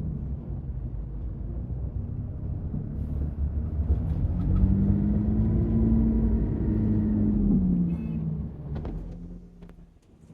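A vehicle's low rumble. About four seconds in, an engine note rises and holds, then drops away and fades near the end, with a few light clicks.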